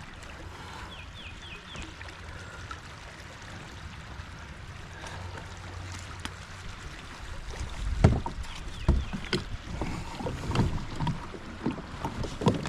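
Kayak paddling on a river current: a quieter stretch of water and wind noise, then from about two-thirds of the way through, irregular paddle strokes splashing and knocking against the kayak.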